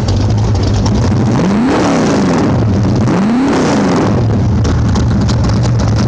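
1969 Corvette road-race V8 with Hooker headers idling loudly, with two quick throttle blips that rise and fall, the first about one and a half seconds in and the second about three seconds in. The owner says the engine is flooded from sitting at idle.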